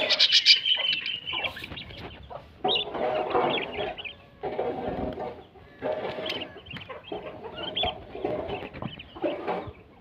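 Birds calling in short bursts of a second or so, with sharp high chirps near the start and lower, fuller calls through the rest.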